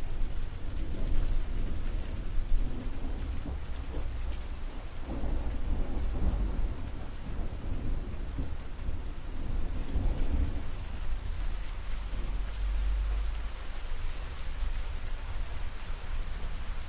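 Steady rain hissing, with low rolling thunder rumbling underneath that swells in the middle and then fades.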